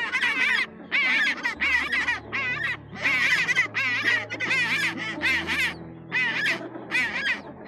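Humboldt penguins braying: a quick run of harsh, wavering calls, about a dozen in all with short gaps between them. Soft background music plays underneath.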